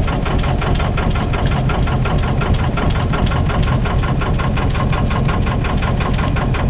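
Albin 2D inboard boat engine running steadily at slow speed, with an even, rapid beat.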